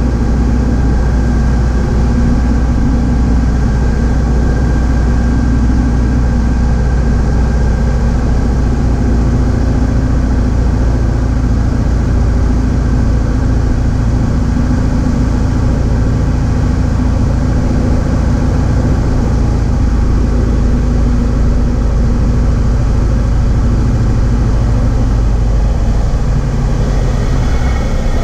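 Cessna 172H's six-cylinder Continental O-300 piston engine and propeller running steadily, heard from inside the cockpit, with a slight change in engine note near the end.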